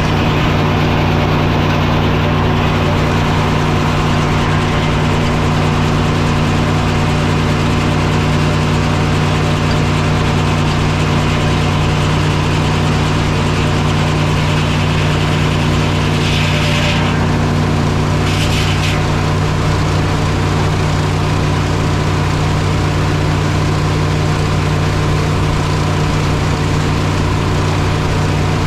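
Engine powering the sawmill, running at a steady speed between cuts, with two short bursts of higher-pitched noise about two-thirds of the way through.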